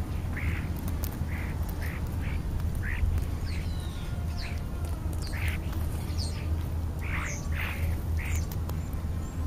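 European starlings calling: a string of short, harsh calls with a few thin sliding whistles mixed in, over a steady low rumble.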